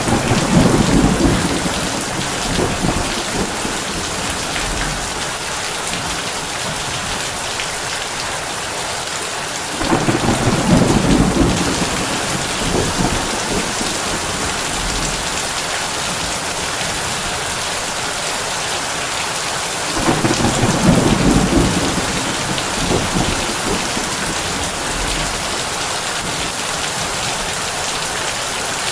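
Heavy rain falling on a tin roof as a steady hiss, with low thunder rumbles three times, about ten seconds apart, each lasting a couple of seconds.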